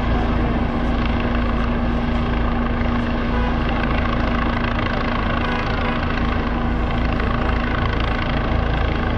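Sheriff's helicopter running, a loud, steady rotor and engine drone with a constant hum through it.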